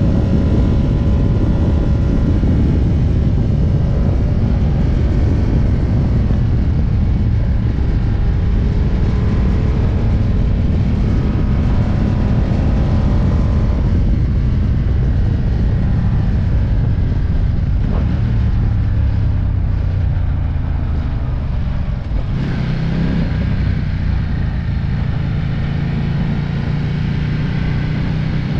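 Ducati Diavel's V-twin engine running under wind rush at speed, its note falling slowly as the bike slows, with a gear change about 22 seconds in.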